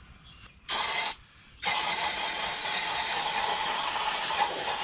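Aerosol brake cleaner spraying: a short burst, then a long continuous spray starting about a second and a half in. The cleaner is being used to wash sludge out of a tractor's oil filter housing.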